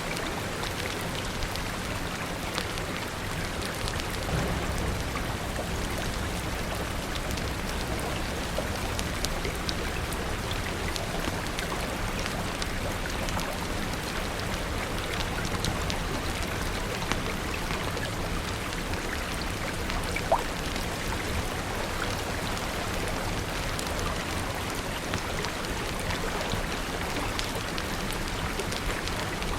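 Steady rain falling, a dense even patter with many scattered sharp drips and clicks, and one louder pop about twenty seconds in. A low rumble swells about four seconds in and fades again by about ten seconds.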